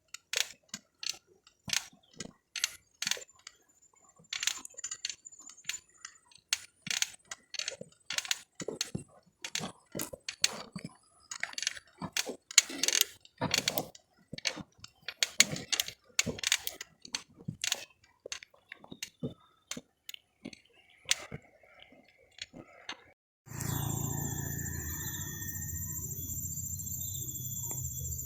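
Irregular crisp crunching and crackling of dry leaves and twigs, several snaps a second, for most of the stretch. About twenty-three seconds in it cuts suddenly to a steady shrill insect chorus over a low rumble.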